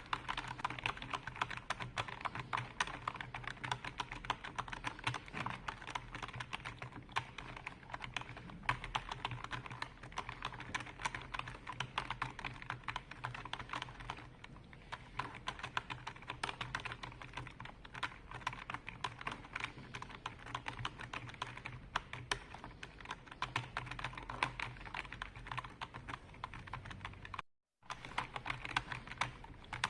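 Fast, continuous typing on a computer keyboard: a dense stream of key clicks over a faint steady low hum, broken by a brief cut to silence near the end.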